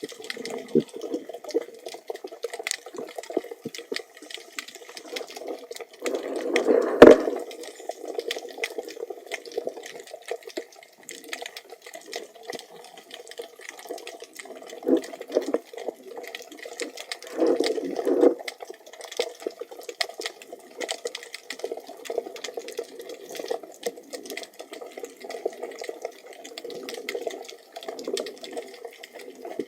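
Water heard through an underwater camera: a low wash of water movement with a steady scatter of fine crackling clicks, swelling twice. There is one sharp knock about seven seconds in.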